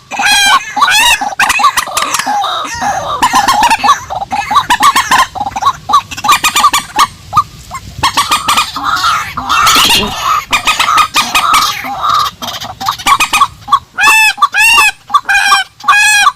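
Purple swamphen and white-breasted waterhen calling: loud clucking and honking calls repeated in rapid series. Near the end comes a run of arched, ringing notes.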